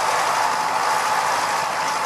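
Vintage stationary engine running steadily, a dense even mechanical noise with a faint steady tone.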